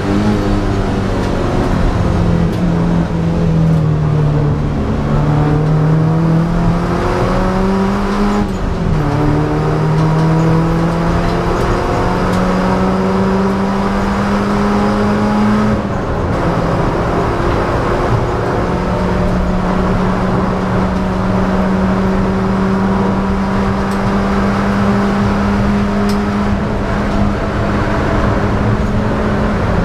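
Ford Laser KQ race car's four-cylinder engine, heard from inside the cabin, pulling hard under full throttle on track. Its note climbs, drops sharply about 8 seconds in at an upshift, climbs again, then holds a steady high pitch for about ten seconds before falling near the end as the car slows.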